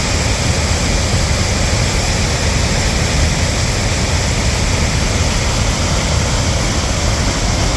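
Reedy River in flood after a hurricane, its swollen water rushing in a loud, steady roar with a deep rumble.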